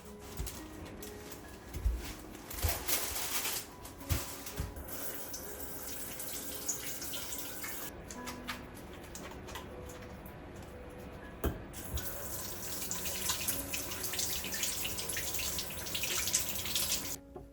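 Water running from a tap into a sink, a steady splashing hiss that grows stronger in the second half, with a few sharp knocks. Soft music plays underneath.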